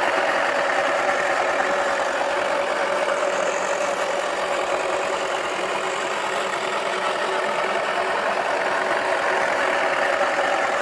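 Toy washing machine's small electric motor running continuously, spinning its drum with a steady, unchanging whirr.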